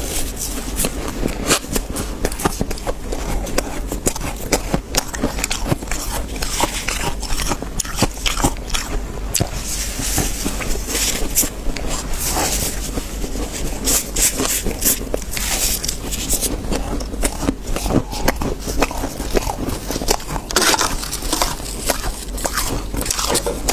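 Fluffy humidifier-freezer frost crunching, a dense, unbroken run of crisp crackles and scrapes.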